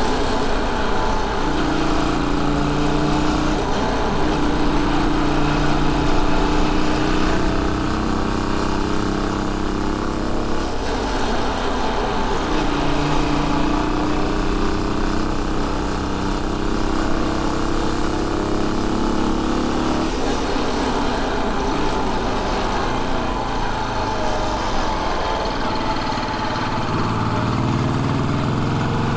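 Royal Enfield Bullet 500's air-cooled single-cylinder four-stroke engine running while riding, its note holding steady for a few seconds at a time and stepping up and down with speed, then rising near the end as the bike accelerates.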